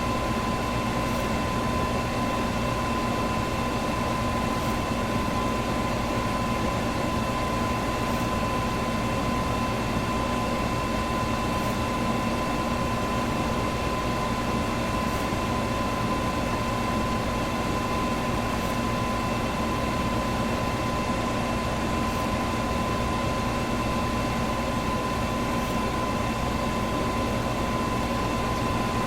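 Electric fan running steadily: an even whoosh of moving air with a motor hum in several steady tones, and a faint tick about every three and a half seconds.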